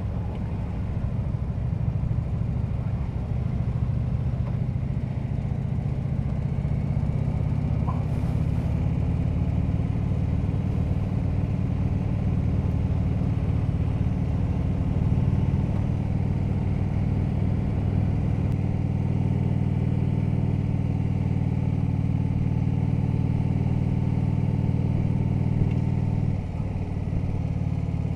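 Harley-Davidson V-twin engine running at a steady cruise while the motorcycle is ridden, with a brief dip in engine note near the end as the throttle eases off or a gear changes.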